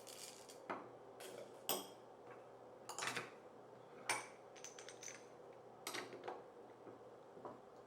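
Coffee beans being scooped and poured into the silo of a manual coffee grinder: several short rattling clatters, a few seconds apart.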